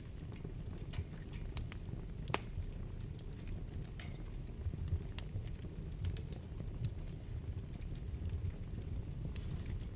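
Wood fire burning in a fireplace: a steady low rumble of flames with scattered sharp crackles and pops, one louder pop a little over two seconds in.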